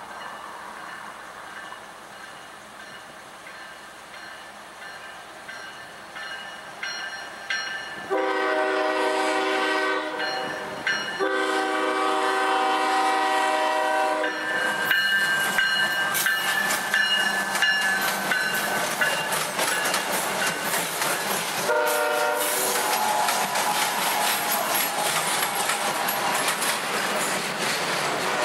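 Diesel freight train approaching and passing, sounding its multi-chime air horn: two long blasts, a short one about 22 seconds in, and a long blast starting at the very end, the long-long-short-long grade-crossing signal. The rumble builds as it nears, and the wheels clatter over the rail joints as the locomotives and cars go by.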